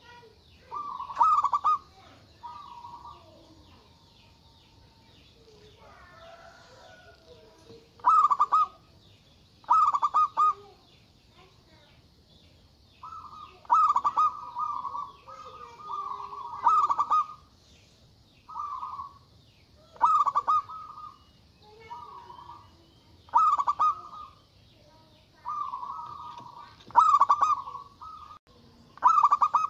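Zebra dove (perkutut) cooing: short phrases of rapid, trilled coos, repeated every two or three seconds, with a lull of several seconds early on. Fainter high chirps from other birds sound underneath.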